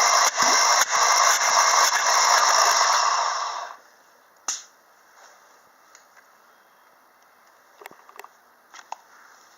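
Mercedes-Benz M112 V6 engine spun over on its starter: a loud, even whir with a regular beat about twice a second that stops about three and a half seconds in. A single sharp click follows, then a few light knocks.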